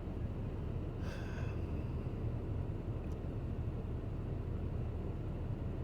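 Steady low rumble, with a brief breath-like vocal sound about a second in.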